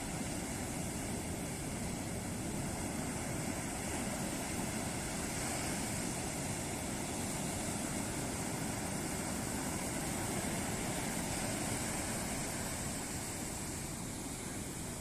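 Ocean surf washing onto a beach: a steady, continuous rush of breaking waves that swells gently and eases off.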